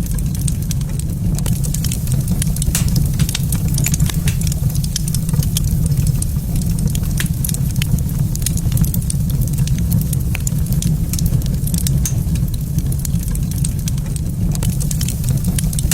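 Wood fire in a fireplace crackling, with frequent short sharp pops and snaps over a steady low rumble.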